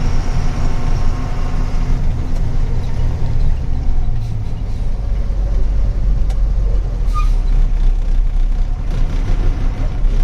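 Truck engine running steadily under way, a loud low drone whose pitch shifts about four seconds in.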